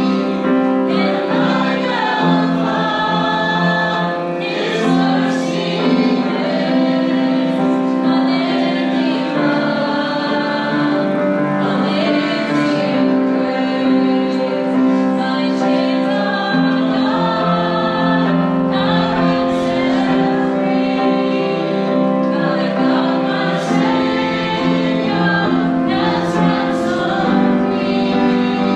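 A worship song sung by a group of voices, with steady held notes.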